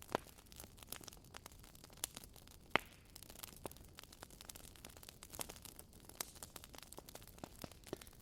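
Wood fire crackling in a fireplace: irregular small pops and snaps over a soft hiss, with two louder pops, one right at the start and one a little under three seconds in.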